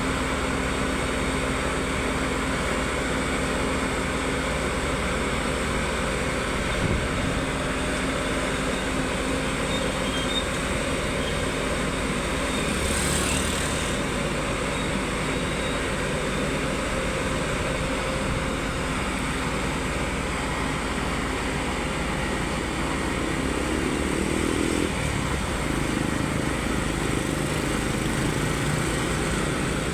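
Heavy-equipment engine running steadily at a constant level during the loading of a road roller onto a self-loading truck, with a brief hiss about 13 seconds in.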